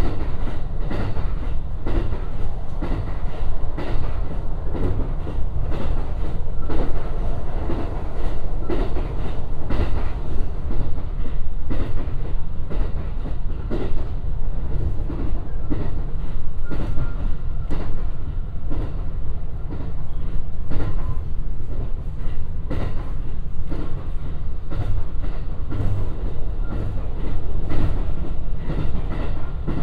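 JR West 223 series electric train running at speed, heard from inside the passenger car: a steady low rumble of wheels on rail with frequent, irregular clicks and knocks from the track.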